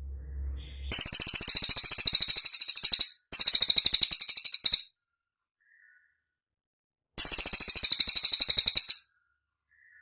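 Cililin songbird singing three bursts of a rapid, high trill of evenly repeated notes, the first about a second in and the last near the end.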